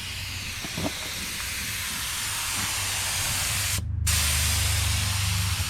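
Spray gun hissing steadily as it sprays coating on the truck bed, cutting out briefly a little before four seconds in and then resuming. A low steady hum runs underneath and grows louder after the break.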